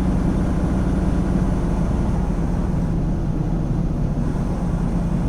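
Semi truck cruising, heard from inside the cab: a steady drone of diesel engine and road noise, with a constant low hum.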